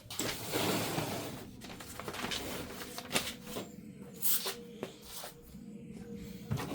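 Paper and packaging rustling as it is handled, loudest in the first second or so, then a few sharp light knocks.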